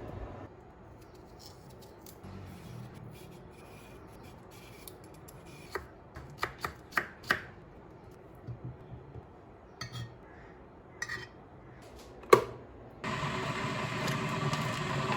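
Kitchen work: a run of light clicks and knocks of utensils and dishes being handled, with one sharper knock near the end, followed by a steady rushing noise starting about two seconds before the end.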